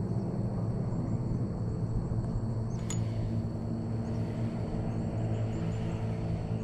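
Steady low engine rumble, with a single sharp click about three seconds in and faint high bird chirps.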